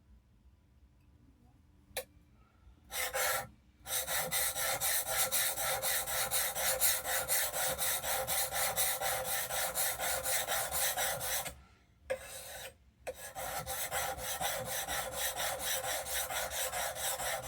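A steel plane iron's bevel is stroked quickly back and forth on an oilstone, a steady rasping scrape of honing to raise a burr. A single click comes about two seconds in, the scraping starts about a second later, and it breaks off briefly twice before running on.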